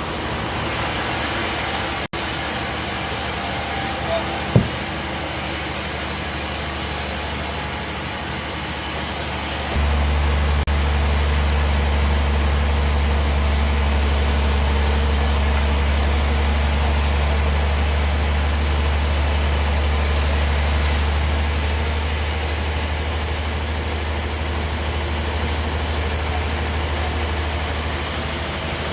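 Bandsaw sawmill machinery running with a steady mechanical noise. About ten seconds in, a deep, steady hum comes in and holds, and there is a single sharp tick shortly before that.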